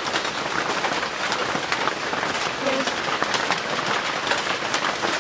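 Heavy rain falling steadily, a dense patter of many small drop ticks.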